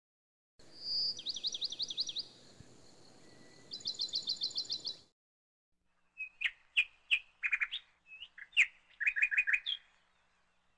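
Birds singing: two runs of quick, high, repeated notes. After a short gap comes a series of sharper chirps and short trills. Each passage starts and stops abruptly.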